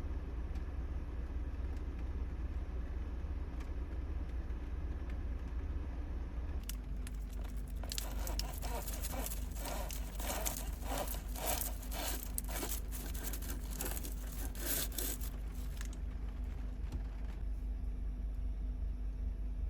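Steady low rumble of a vehicle, with a run of rapid, irregular clicking and rattling lasting about eight seconds in the middle.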